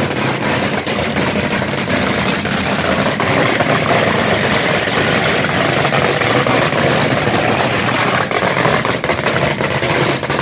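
Loud, dense hissing and crackling with many sharp cracks, from fireworks going off in the street close by.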